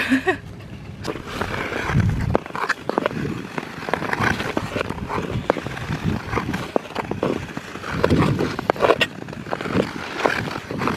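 Ice skate blades scraping and gliding on outdoor rink ice, in an irregular run of scrapes and clicks.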